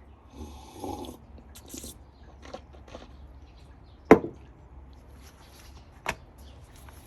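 Handling noises: light rustling and clicks, then two sharp knocks, a loud one about four seconds in and a smaller one about two seconds later, over a low steady hum.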